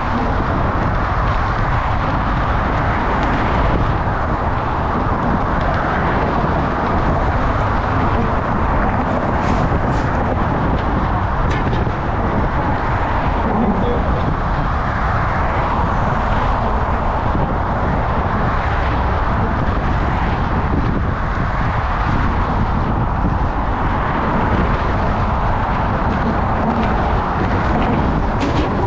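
Steady rush of wind buffeting the microphone, mixed with the noise of passing road traffic.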